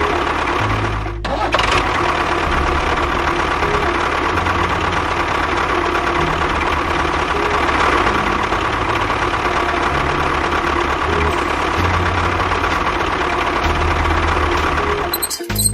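Steady mechanical running sound of a small motor, mixed with background music with a stepping bass line. There is a brief dropout about a second in.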